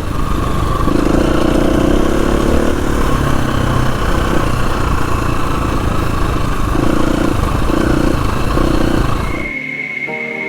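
Dirt bike engine running under varying throttle while riding a trail, heavy with wind and road noise on the bike's camera mic. About nine and a half seconds in it cuts off suddenly to a much quieter scene with a steady high-pitched buzz.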